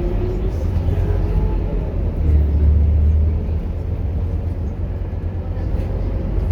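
Diesel engine of a Scania K230UB single-deck city bus running while the bus is under way: a deep, steady rumble that swells about two seconds in. A faint rising engine note can be heard near the start.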